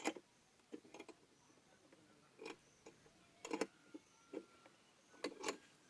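Scattered sharp clicks and knocks, about eight, irregularly spaced, as timber boards are worked and clamped together.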